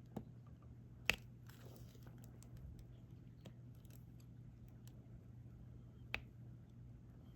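Faint clicks and light taps of a diamond painting drill pen picking up drills and pressing them onto the canvas. The sharpest click comes about a second in and another a little after six seconds, over a steady low hum.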